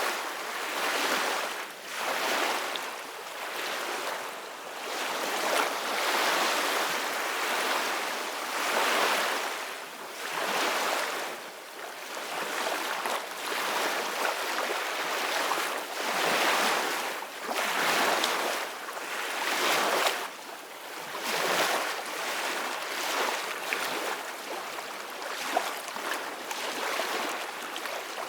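Ocean waves breaking on the shore: a continuous wash of surf that swells and eases every second or two.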